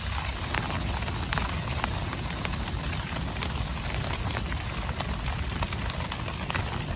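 Steady rain, with many separate drops ticking sharply as they strike a surface close by, over a low, even rumble.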